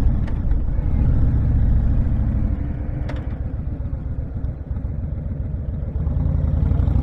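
Honda VTX1300 V-twin cruiser engine running at road speed, with wind rushing over the rider-mounted microphone. It eases off a little in the middle and grows louder again near the end.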